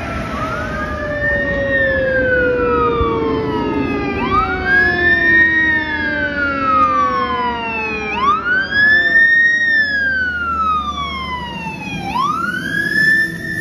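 Fire apparatus sirens. An electronic siren cycles in a wail about every four seconds, each time rising quickly and falling more slowly. Under it, a Federal Q2B mechanical siren winds down slowly through the first half.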